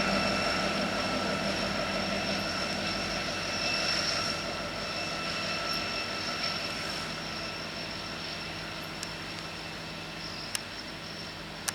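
A freight train rolling past on the rails and fading away, its steel wheels giving off a steady high squeal that dies down along with it.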